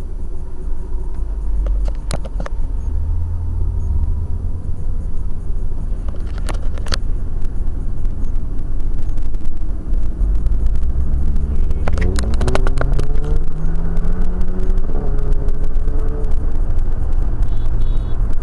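Car driving, recorded by a cheap dashcam's built-in microphone: a heavy low rumble of road and engine noise, with the engine pitch rising from about ten seconds in as the car speeds up, then holding steady. A few sharp clicks come through, around two, seven and twelve seconds in.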